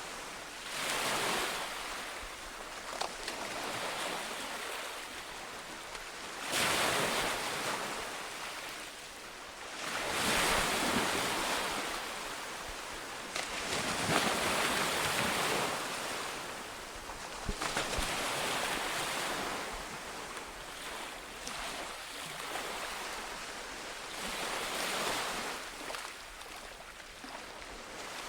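Sea waves breaking and washing up on a shore, with a swell of surf every three to four seconds.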